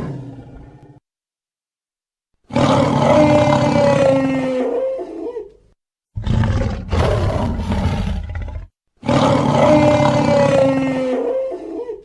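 Dinosaur roar sound effects: a roar fades out, then three separate long roars follow with short silent gaps between them. The first and third of these are the same recording.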